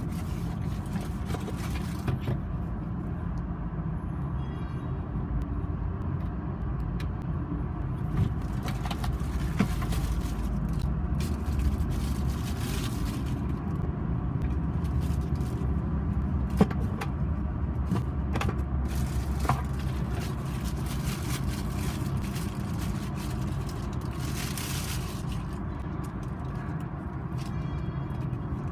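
A road vehicle being driven: a steady low rumble of engine and road noise, with scattered light knocks and rattles.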